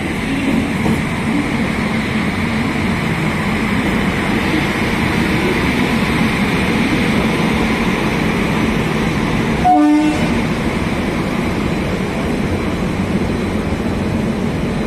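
Railway locomotive running steadily, with a continuous mechanical hum and rumble. About ten seconds in, a train horn gives one short toot.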